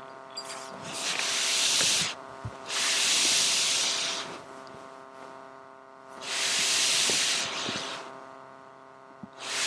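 Three long rushes of hissing noise, each about one and a half seconds, with another starting near the end, over a faint steady hum.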